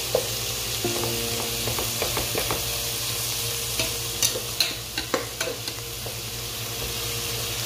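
Chicken, sliced hotdogs and mushrooms frying in a pot, sizzling steadily while a utensil stirs them. A few sharp clicks and scrapes of the utensil against the pot come in the middle.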